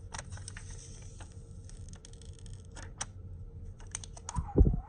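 Scattered light clicks and taps of small tools and phone parts being handled on a repair bench, with a dull thump a little before the end.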